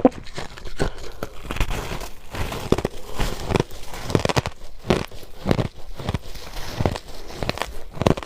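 Crushed ice being chewed close to the microphone: a steady crackling crunch with sharper crunches about every half second to second.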